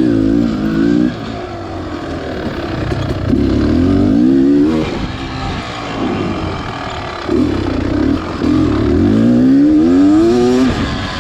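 Beta Xtrainer 300 two-stroke dirt bike engine revving up and down several times under the throttle while being ridden, its pitch climbing and dropping with each blip.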